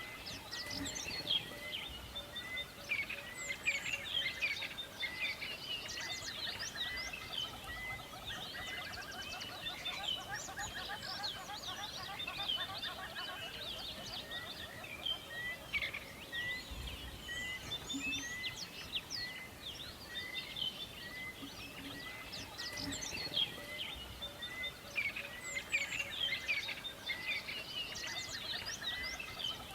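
Forest bird chorus: many birds chirping and trilling at once, with one bird repeating a short note about once a second throughout.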